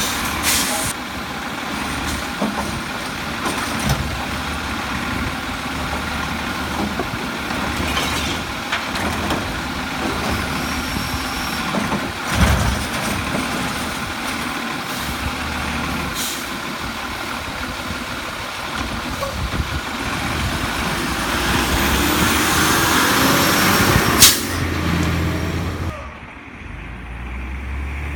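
Automated side-loader garbage truck (Heil Rapid Rail) working: the diesel engine runs throughout, with scattered clanks. The sound builds for a few seconds before a sharp air-brake hiss about 24 seconds in, then drops away quickly.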